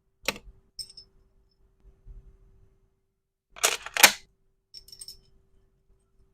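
Clicks and snaps from small resin and plastic pieces being handled during packing. There is a sharp click near the start, a few faint ticks, then a loud double snap a little past halfway, followed by light ticks.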